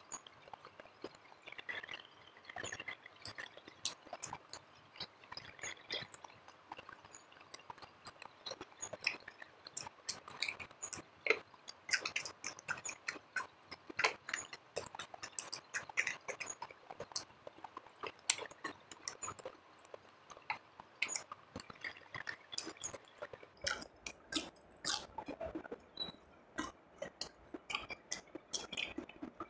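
Close-miked chewing of crispy fried fish with the mouth, a run of crunching and crackling clicks, thickest through the middle.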